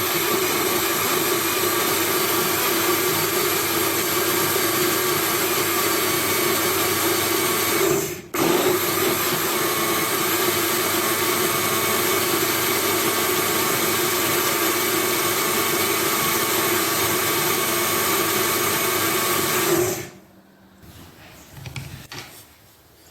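Electric blender motor running steadily with a plastic jug, blending a ripe banana, oat and peanut punch drink. It cuts out for a moment about a third of the way in, starts again, and switches off near the end.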